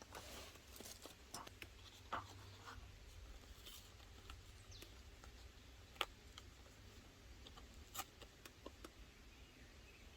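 Faint scattered clicks and light scratching, like small objects being handled, with sharper taps about two, six and eight seconds in, over a low steady background.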